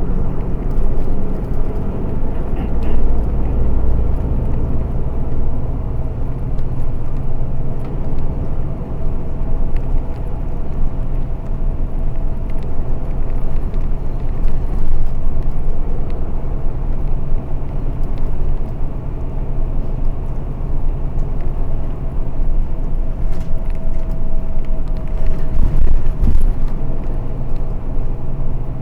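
A bus in motion, heard from inside the cabin: a steady engine drone with tyre and road noise.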